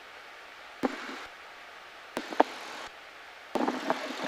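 A few sharp clicks and knocks over a steady faint hiss, followed near the end by a stretch of rustling, knocking handling noise.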